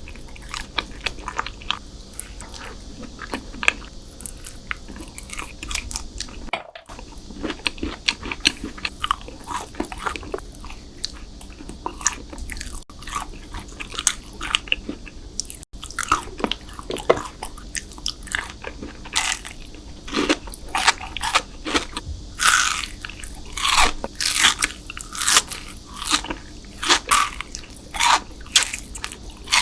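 Close-miked eating: bites and crunching chews of sweet desserts, with sharp crackly clicks throughout. Several clips are joined with brief gaps, and in the last third the crunches get louder and come about once a second.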